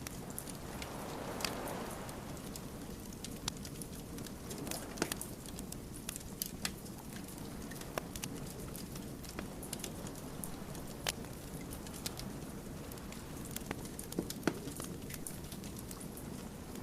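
Wood fire crackling: irregular sharp pops and snaps from burning logs over the low, steady rush of the flames, with a soft hissing swell about a second in.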